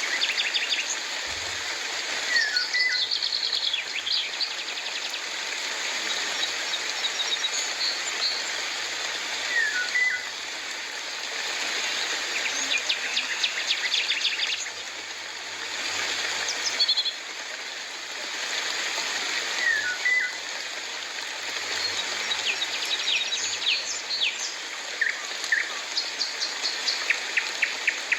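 Birds calling and chirping over a steady hiss of rain. A short two-note call comes three times, and quick trilled runs of chirps cluster mostly in the middle and near the end.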